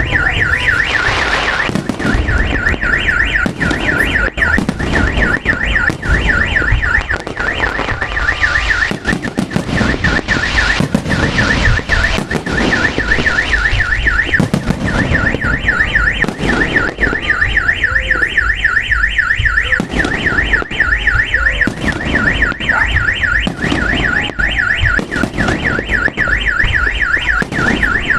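A car alarm siren warbling rapidly and continuously, dropping back for a few seconds now and then, over the bangs and crackles of fireworks going off.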